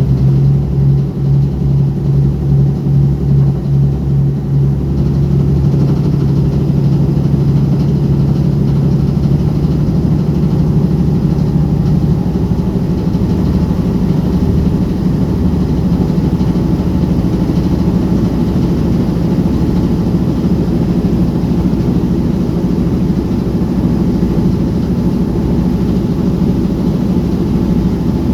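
The town ferry Hamayu's diesel engine running as a low, steady drone. For the first few seconds it throbs in a regular beat, then smooths out, and its pitch rises slightly about ten seconds in.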